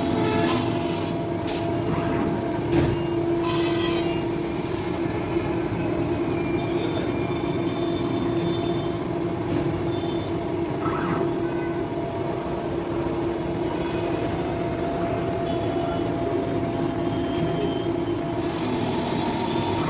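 Automatic binding-tape roll cutting machine running with a steady mechanical hum, with a few short clicks in the first few seconds.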